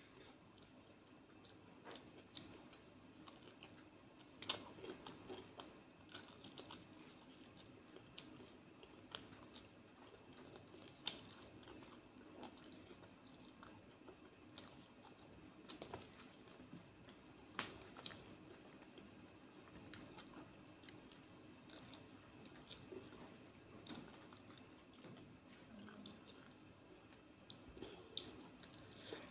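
Quiet, close-miked chewing and mouth sounds of a person eating rice and fried fish with her fingers, with scattered soft clicks and crunches.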